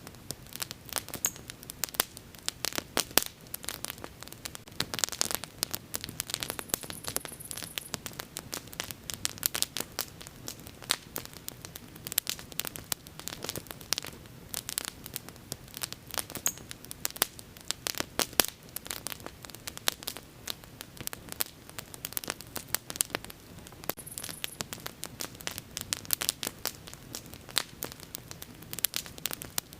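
Wood bonfire crackling, with dense, irregular snaps and pops several times a second over a soft steady hiss.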